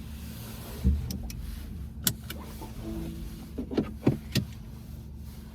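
Cabin of a VW ID.4 electric car on the move: a steady low road rumble, with several sharp clicks and knocks, the loudest about a second in and a quick cluster near the end.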